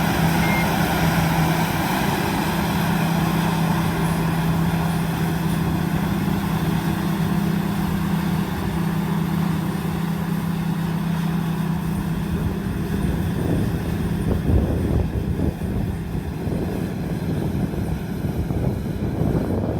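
Diesel engine of a combine harvester running steadily under load, with a steady low drone that eases off about two-thirds of the way through, then some irregular clatter. A reversing alarm beeps briefly at the very start.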